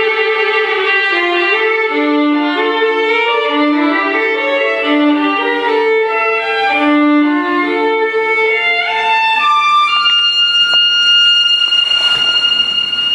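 Violin music: a melody of short stepping notes, then about three-quarters of the way through it slides up into a long held high note.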